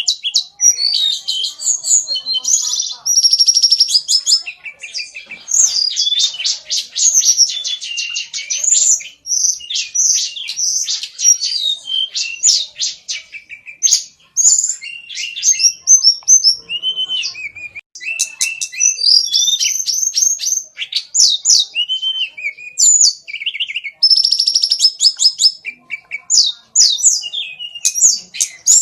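A cockatiel chattering and whistling without let-up: rapid buzzy trills mixed with short whistles that rise and fall.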